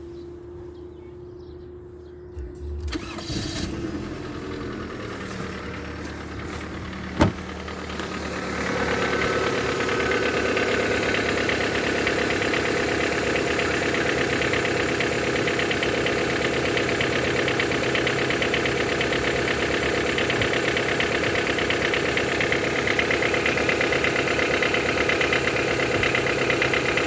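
Toyota 5A-FE inline-four cold-started: after a brief faint whine the starter cranks, the engine catches, and it settles into a steady idle, louder from about eight seconds in, with one sharp click near seven seconds. Through the idle runs an engine knock that the owner says is stronger when cold and that a valve clearance adjustment did not cure.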